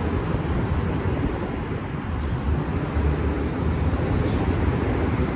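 Street noise of passing city traffic, with gusting wind buffeting the microphone as a low, uneven rumble.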